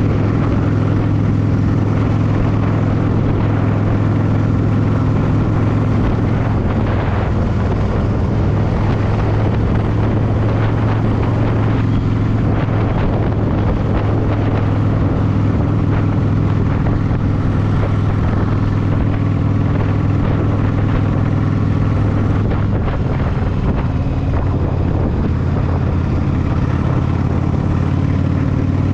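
Yamaha V Star 1100's air-cooled V-twin engine running at a steady cruise while riding, with wind noise from the ride over the microphone.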